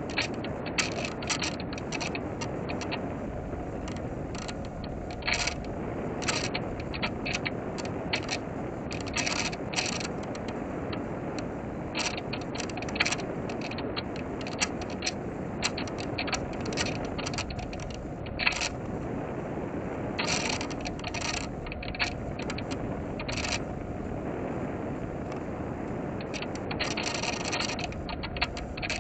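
Airflow rushing past a small electric RC plane in flight, heard from a camera on the airframe, with many short mechanical clicks scattered irregularly throughout. There is no steady motor tone.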